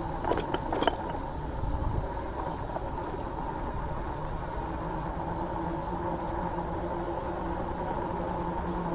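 A motor vehicle's engine running steadily at an even pitch over a low rumble of traffic. A few sharp clicks and rattles come in the first second.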